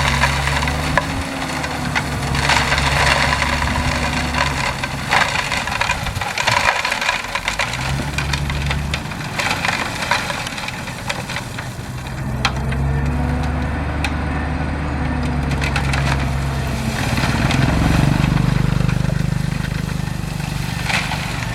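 Diesel engine of a bulldozer pushing gravel, its low hum rising and falling with the load, over a loud, continuous crunching and crackling of stones.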